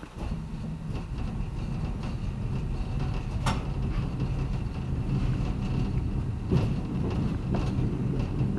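Electric multiple-unit train pulling away from a station, its low running hum with steady motor tones growing louder. A few sharp clicks of the wheels over the rails, the loudest about a third of the way in.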